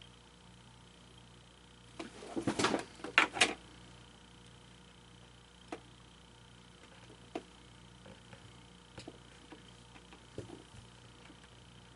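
Handling noise from working on a small plastic animated figure: a brief flurry of rustling and clicks about two seconds in, then scattered light clicks over a faint steady hum.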